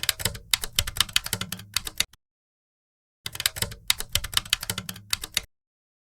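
Rapid clicking of keys being typed, in two runs of about two seconds each with a dead-silent gap between them, the second run stopping about half a second before the end.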